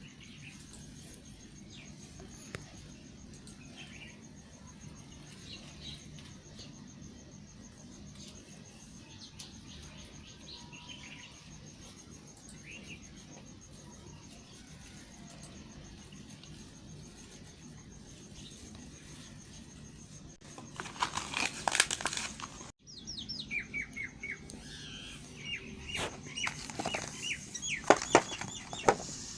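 A knife cutting and scraping a bar of soap. A dense, crisp crackling scrape comes about two-thirds of the way in, then a run of sharp slicing strokes near the end. Before that, the background is faint, with scattered small chirps.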